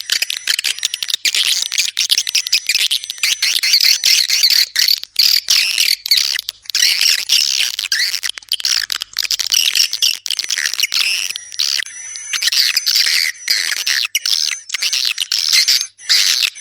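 Recorded swiftlet calls: dense, rapid, chattering chirps with brief gaps. This is a swiftlet lure sound of the kind played to draw the birds into a nesting house.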